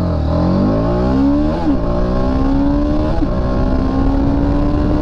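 Motorcycle engine accelerating hard at full throttle, its pitch climbing in each gear and dropping at upshifts about one and a half seconds and about three seconds in, then rising slowly in the higher gear.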